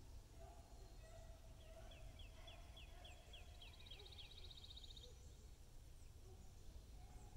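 Faint outdoor ambience with a low steady rumble. A small songbird sings a run of about ten short down-slurred whistles that speeds into a fast high trill, over a fainter, lower warbling call.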